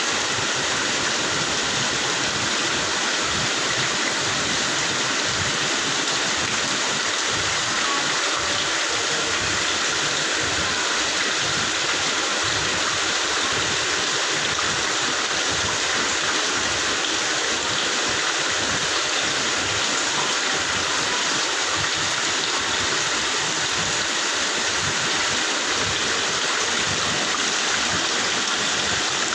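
Wastewater rushing and splashing through an effluent treatment machine: a steady, unbroken flow of water with no pauses.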